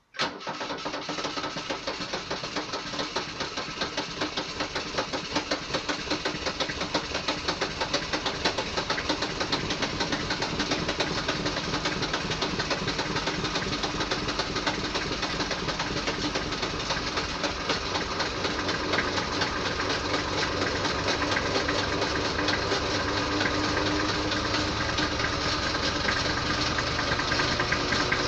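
Diesel engine running just after a cold start, with a fast, even knocking clatter. It comes in abruptly and runs on steadily.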